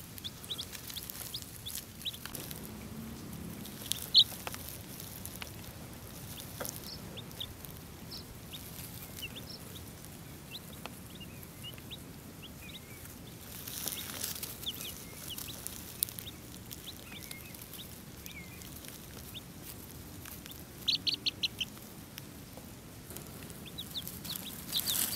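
Young chicks peeping: short, high cheeps scattered throughout, one louder about four seconds in, and a quick run of repeated peeps about 21 seconds in.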